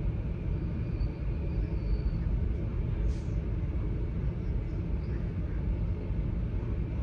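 Steady low rumble of a moving train, heard from inside the carriage, with a brief faint high tone about a second in and a short hiss about three seconds in.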